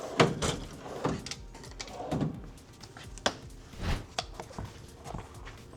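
A run of irregular knocks and clunks from hands-on work on an electric fat-bike wheel and tire, about half a dozen in the first four seconds and softer near the end.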